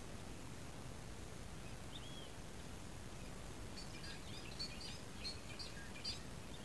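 A bird calling over steady outdoor background noise: one short whistled note about two seconds in, then a quick run of high chirps from about four to six seconds in.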